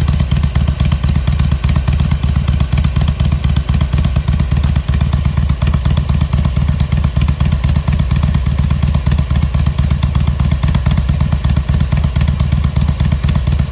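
Harley-Davidson Iron 883's air-cooled V-twin idling steadily through its stock exhaust with drilled baffles: a loud, even run of low exhaust pulses.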